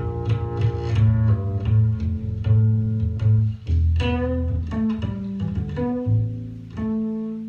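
Double bass playing a melodic solo line of plucked notes, each ringing for up to about a second.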